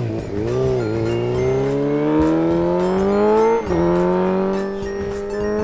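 Race car engine accelerating through the gears. Its pitch climbs steadily, drops sharply at a gear change about three and a half seconds in, then climbs again.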